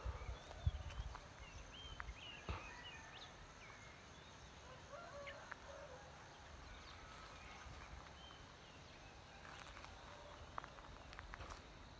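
Quiet outdoor ambience at dawn: scattered short bird chirps and calls over a low rumble, with a few faint clicks.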